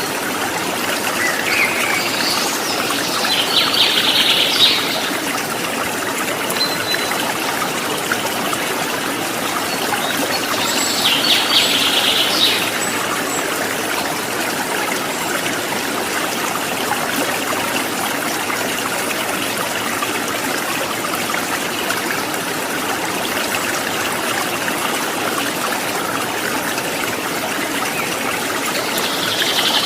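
Water trickling and splashing steadily, like a small stream. A bird's short burst of quick, high notes comes in about three seconds in, again around eleven seconds, and once more at the very end.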